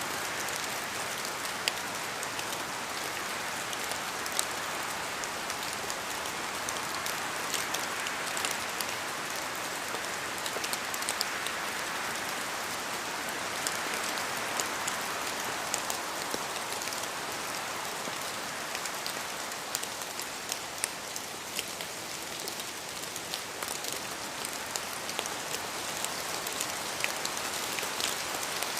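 Steady rain: a continuous hiss with many close drops ticking sharply and irregularly throughout.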